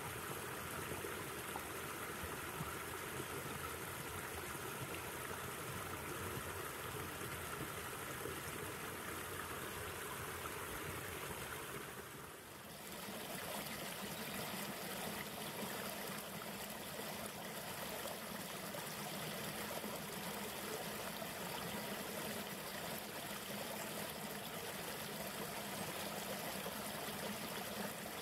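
River water flowing as a steady rush. The level dips briefly about twelve seconds in, and the sound's character changes slightly after that.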